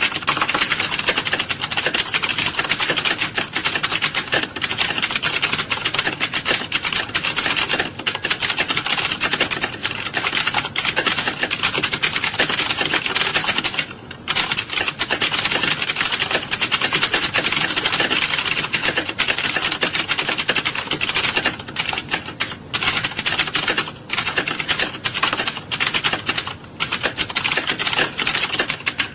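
Computer keyboards clattering in a typing class, many keystrokes overlapping into a dense, fast, continuous rattle of key clicks, with a brief lull about halfway through and a few short gaps later on.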